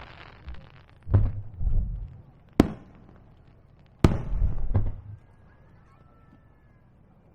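Aerial firework shells bursting: a few booms with rumbling echoes, a sharp crack about two and a half seconds in, and the loudest burst about four seconds in, after which it falls quiet.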